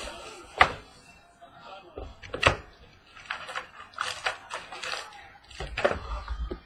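Irregular crinkling, rustling and sharp clicks as a sealed trading-card box and its packaging are opened and handled, coming in short bursts every second or two.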